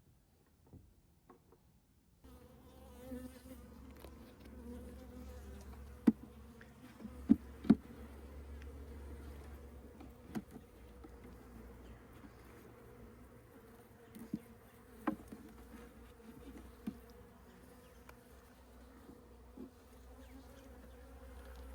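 Honeybee colony humming inside an observation hive, a steady buzz that starts abruptly about two seconds in. Scattered sharp clicks sound over it, the loudest a few between about six and eight seconds in.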